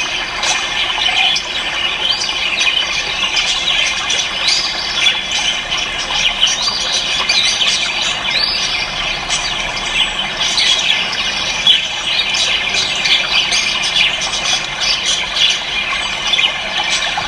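Dense chorus of many cage birds chirping, squeaking and squawking at once, a continuous tangle of short high calls.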